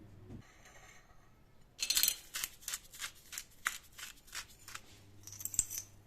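A run of sharp clicks, about three a second for about three seconds, then a short high rustle near the end.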